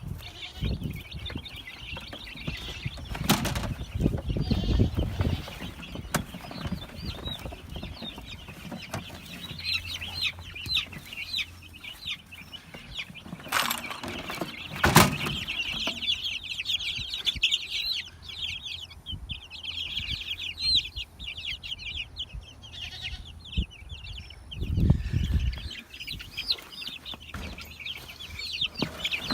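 A flock of three-week-old Production Red chicks peeping continuously in high, rapid chirps, with wings flapping, a few low thumps and a handful of sharp knocks.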